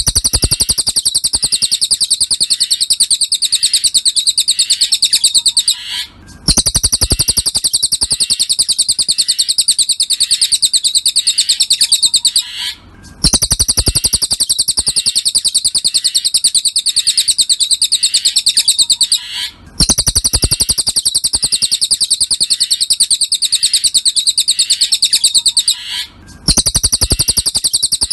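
Recorded cililin song played on a loop as a masteran tutor track: a fast, high-pitched trill of rapidly repeated notes, broken by a brief pause about every six and a half seconds where the loop restarts.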